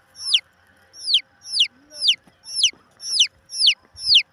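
A chick peeping loudly over and over, about two high calls a second, each one falling sharply in pitch.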